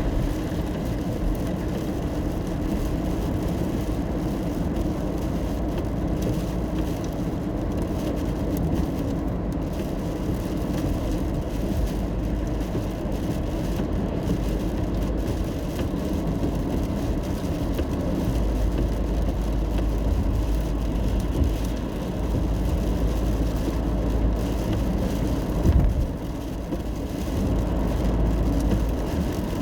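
Steady low road and engine rumble of a car being driven, heard from inside the cabin. There is one brief thump near the end.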